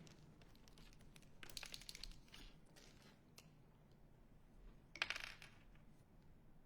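Two short bursts of clicking and rattling from small hard objects, about three seconds apart, over near silence.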